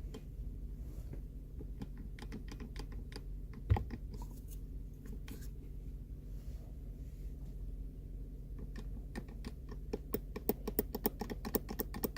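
Worn Auto-Lite IAD 4008 distributor's loose shaft clicking and rattling in its housing as it is worked by hand, in quick irregular ticks that come thicker near the end; the play is the sign of worn shaft bushings. One duller knock about four seconds in, over a steady low hum.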